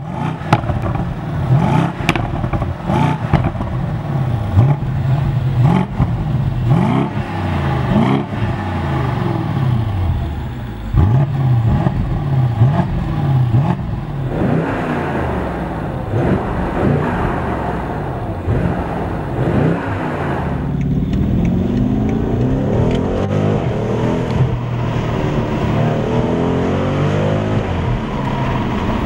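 2017 BMW M550i's twin-turbo V8 revved repeatedly, its pitch rising and falling with each rev, with sharp crackles from the exhaust. About two-thirds of the way in it settles into a long pull under acceleration, with the pitch rising steadily.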